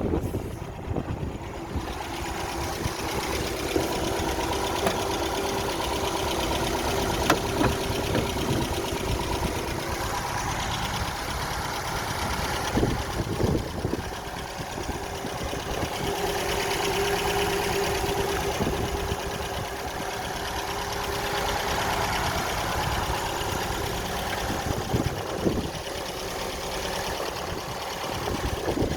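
1967 MGB GT's 1.8-litre four-cylinder B-series engine idling steadily, its pitch rising and settling back a few times.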